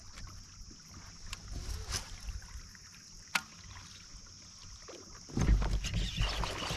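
Light knocks and handling sounds on a kayak with fishing gear, one sharp click a little past the middle, over a steady high chirring of crickets. About five seconds in, louder low knocking and rumbling begins.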